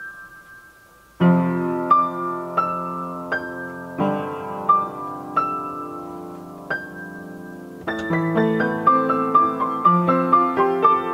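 Soft piano music: held chords with a single high note struck every second or so, turning into a busier run of notes about eight seconds in.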